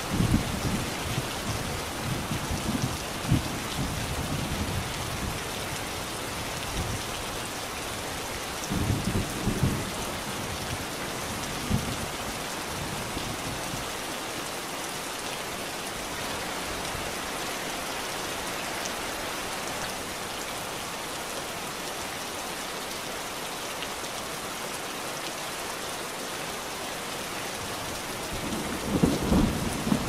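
Steady rain falling, with low rolls of thunder rumbling in the first few seconds, again around nine seconds in, and once more near the end.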